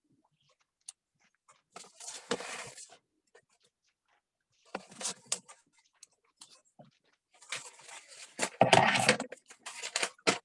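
Wrapping paper rustling and crinkling as it is handled and folded around a gift box, in three bursts with short pauses between, the last and loudest near the end.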